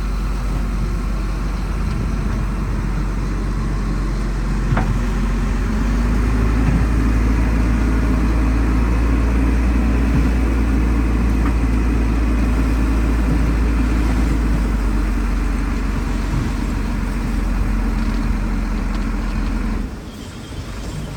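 Heavy diesel engine of earthmoving equipment running steadily with a deep rumble, getting somewhat louder about six seconds in, then dropping off suddenly near the end.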